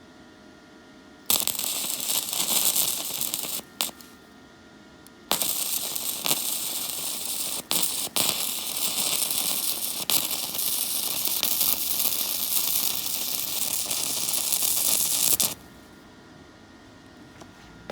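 MIG welder arc crackling during two weld runs from a YOTUKA YS-MIG100 100V welder. The first run lasts about two seconds, and a second starts about five seconds in and runs about ten seconds before stopping abruptly.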